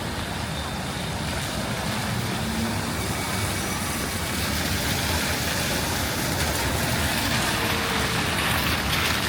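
Road traffic on a rain-wet street: the hiss of tyres and engines of passing vehicles, growing louder toward the end, over steady rain.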